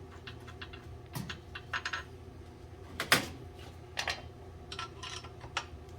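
A wrench working the bolts on a cast-iron boiler's door: scattered metallic clicks and clanks, the loudest about three seconds in, over a steady low hum.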